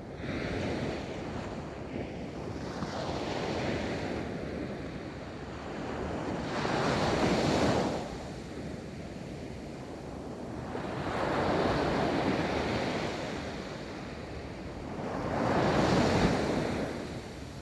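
Ocean waves breaking and washing onto a beach, surging and receding in slow swells; the loudest breaks come about 7, 12 and 16 seconds in. Some wind on the microphone.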